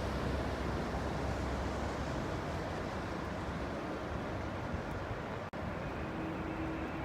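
Steady rushing wind and rain noise on an outdoor microphone, with a low rumble that fades over the first couple of seconds. A faint steady hum comes in near the end.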